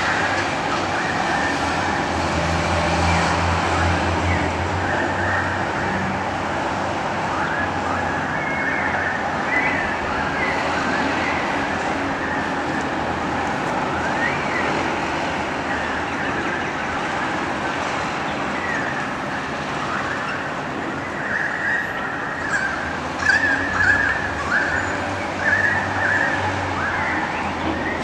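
Birds calling from the treetops in a string of short chirps and squawks, which come thicker and louder near the end. Steady traffic noise and a low hum run underneath.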